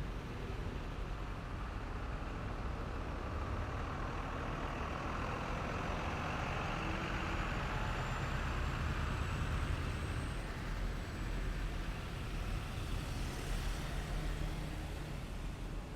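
A heavy military vehicle drives past with steady engine and road noise, swelling to its loudest about ten seconds in. A faint high whine rises slowly alongside it.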